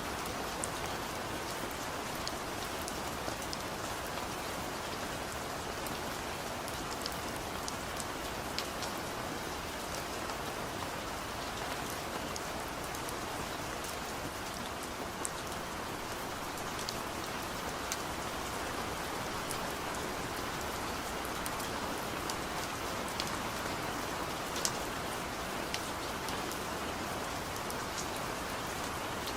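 Steady rain falling, an even hiss with scattered sharp taps of individual drops hitting a surface.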